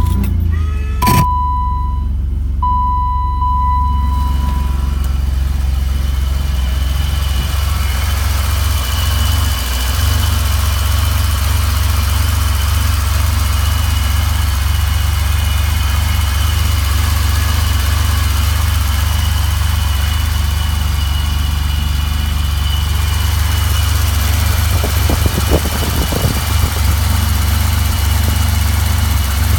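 1988 BMW 735i's M30 3.5-litre straight-six idling steadily just after a cold start at 15°F, with a high whine running above the engine note. An electronic chime beeps several times in the first few seconds.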